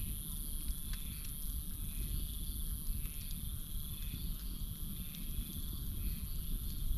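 Campfire burning with scattered small crackles over a low rumble. Crickets keep up a steady high trill, and frogs call in short, repeated pulses.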